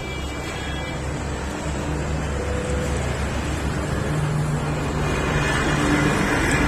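Tractor's diesel engine running with a steady low rumble, growing gradually louder.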